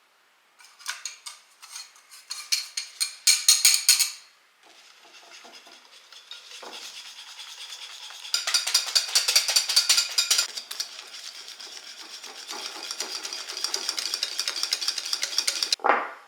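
A whisk beating quickly against the inside of a bowl in fast, even strokes, with softer scraping stirs between the fast bursts and a short clatter near the end.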